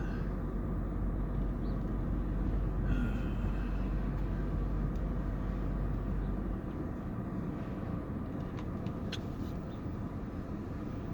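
Vehicle driving, heard from inside: steady low road and engine rumble that drops off about six and a half seconds in as it slows down, followed by a few light clicks.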